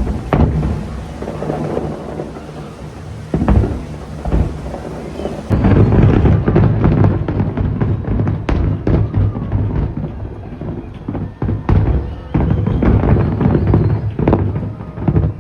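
Fireworks display going off: scattered booms at first, then a dense barrage of booms and bangs from about five seconds in, with music underneath.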